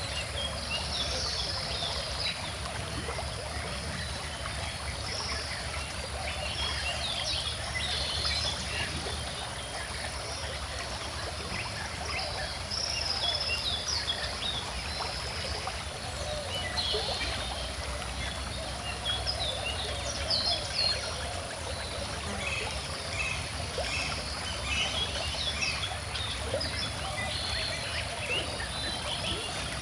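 A small stream runs steadily, with many birds chirping and singing over it.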